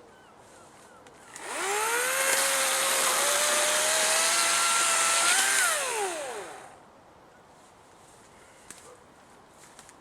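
Battery-powered electric chainsaw spinning up, running at speed with a high whine for about four seconds, then winding down to a stop.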